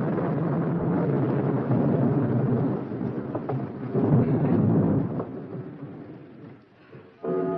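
A long roll of thunder rumbling and slowly dying away. Music begins just before the end.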